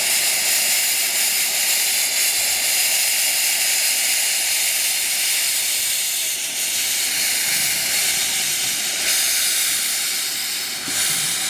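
Steam hissing steadily and loudly from a 15-inch-gauge miniature steam locomotive.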